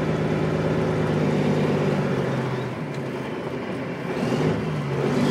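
Dump truck's diesel engine running, its note easing off about halfway through and picking up again near the end.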